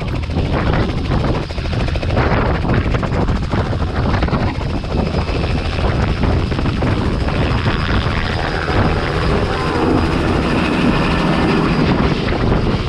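Robinson R66 turbine helicopter running, its engine and rotor making a loud, steady noise.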